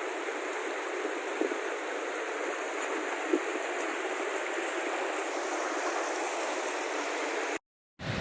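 Steady rush of flowing stream water, an even hiss with no pattern. Near the end it cuts off abruptly to silence for a moment.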